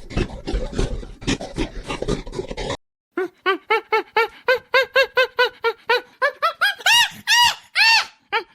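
An animal calling in rapid, repeated high squeaky calls, about three a second, each call rising and falling, climbing higher in pitch near the end. Before it, for about the first three seconds, a separate clip of scratchy, clicky noises cuts off abruptly.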